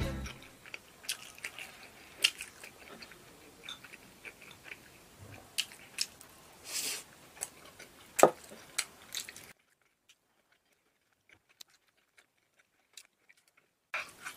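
Close-miked chewing and mouth sounds of someone eating fried meat and eggplant, with many small wet clicks and one loud sharp click a little past halfway. The sound drops to near silence for about four seconds near the end, then the chewing clicks return.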